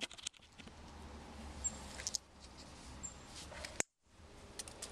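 Faint clicks and light rustling from objects being handled, over a low steady hum, with a brief cut to silence about four seconds in.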